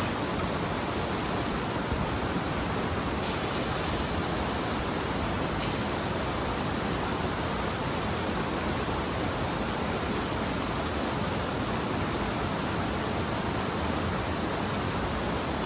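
Steak sizzling steadily on a hot Scuttle cooking disc, an even frying hiss.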